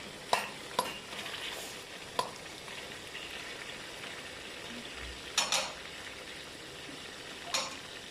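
Meat and tomatoes frying in oil in a karahi, a steady sizzle, with a cooking utensil knocking against the pan several times while stirring.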